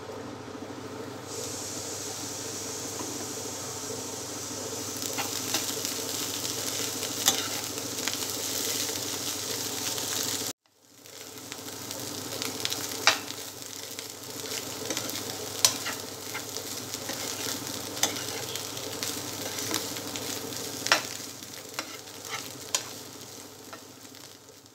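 Chopped teasel gourd (spine gourd) pieces sizzling as they fry in oil in a nonstick pan, with a spatula scraping and clicking against the pan as they are stirred. The sound cuts off sharply about ten seconds in and resumes a moment later.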